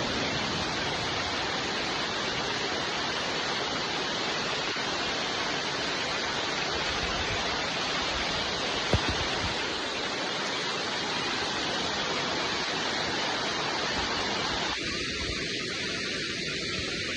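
Steady, even hiss of heavy rain falling, with a single sharp tap about halfway through. Near the end the sound changes and turns a little thinner.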